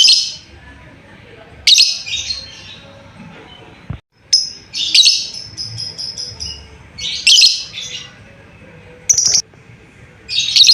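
Lovebird giving high, shrill chirping calls in short bursts that recur every second or two.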